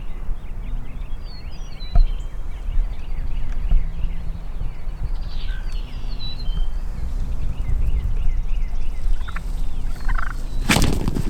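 Wild turkey toms close by, giving scattered small calls, with one loud gobble near the end.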